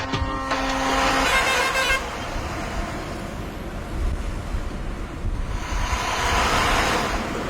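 Road traffic running steadily, with a vehicle horn sounding in the first second or two and the traffic noise swelling louder near the end.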